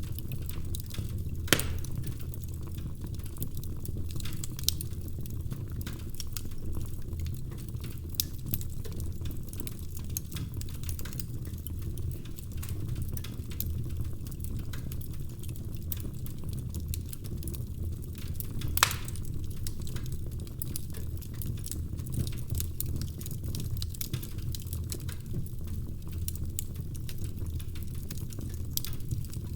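Wood fire burning in a fireplace: a steady low rumble of the flames with scattered small crackles of the logs, and two sharper, louder pops, one near the start and one about two-thirds of the way through.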